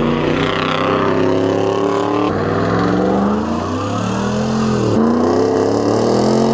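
Combustion engine accelerating hard through the gears, its pitch climbing and then dropping sharply at two gear changes, about two and five seconds in.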